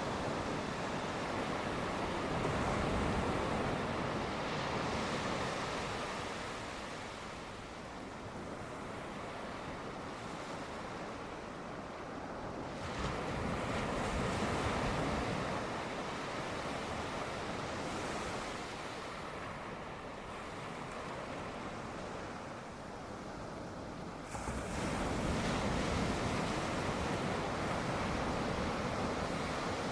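Sea waves washing onto the shore, the surf swelling and easing about every ten seconds, with a sharper surge a little before the end.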